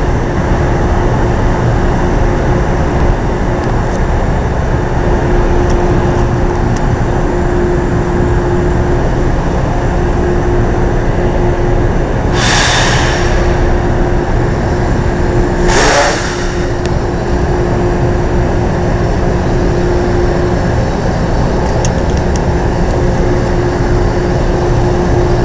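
Stopped Metro-North electric commuter train standing at the platform, running with a steady hum and a constant tone. Two short hisses come about halfway through, a few seconds apart.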